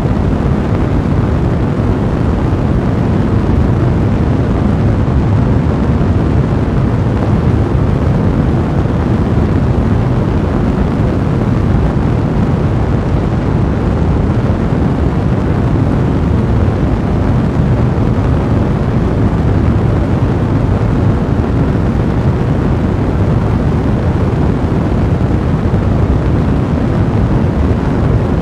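A fire blazing: a steady low rumble of flames thick with dense crackling.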